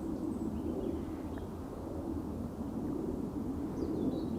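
Outdoor woodland ambience: a steady low rumble of wind, with a few faint, short, high bird chirps, more of them near the end.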